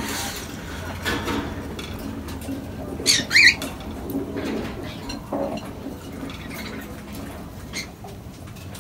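Caged pet birds calling: a short high call about three seconds in, then lower calls.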